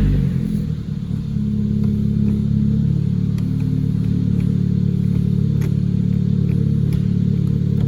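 2018 Hyundai Elantra Sport's 1.6-litre turbocharged Gamma four-cylinder engine settling from a rev in the first second, then idling steadily. A few faint clicks sound over the idle.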